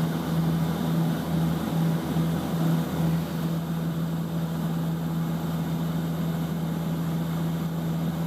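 A steady engine drone: a constant low hum over an even rushing noise, with no change in pitch.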